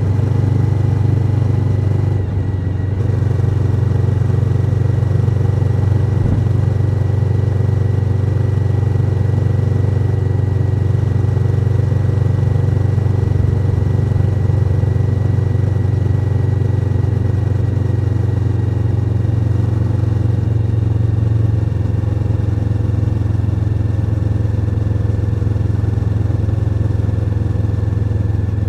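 Suzuki SV1000N's V-twin engine running steadily, with a brief dip in level about two seconds in.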